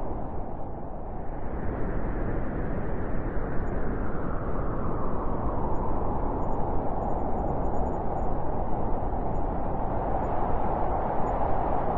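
Wind blowing in a continuous rush, swelling and easing as the gusts shift.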